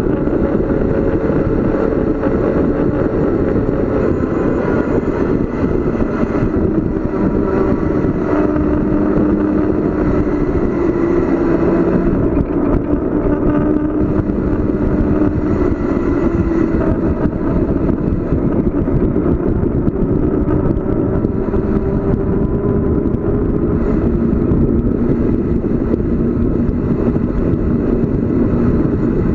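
Steady rushing of wind and road noise from a bicycle descending at speed, with a faint hum underneath that wavers slowly up and down in pitch.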